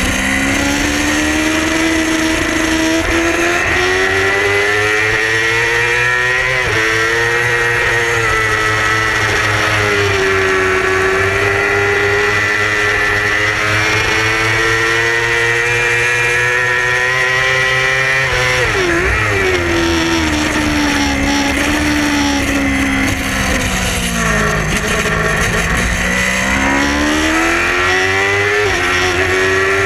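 Yamaha R6 inline-four engine under race load, its pitch climbing and dropping in steps through gear changes. The deepest fall is about two-thirds of the way through, under braking and downshifts, and it climbs again after. A steady rush of wind runs over it.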